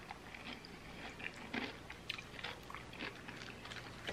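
Close-miked chewing of a mouthful of crispy fried chicken, quiet, with small crackles and wet clicks a few times a second.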